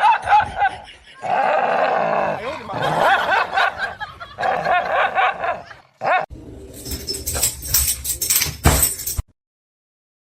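A dog vocalizing in short, bending, pitched calls for several seconds, then a stretch of noisy knocks and rattles that cuts off abruptly about a second before the end.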